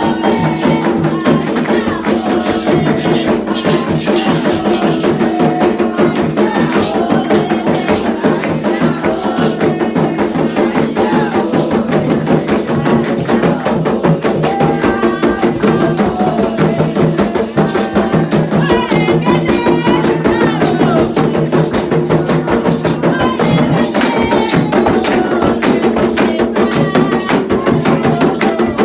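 Candomblé ceremonial music: a steady, fast percussion rhythm of drums and struck wood-block-like strokes, with voices chanting over it.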